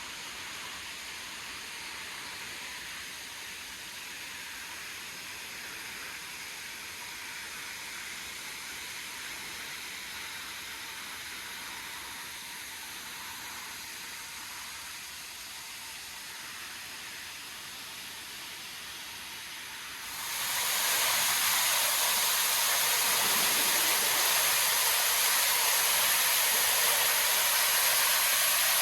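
Rushing water of a waterfall, a steady hiss that suddenly becomes much louder and brighter about two-thirds of the way through.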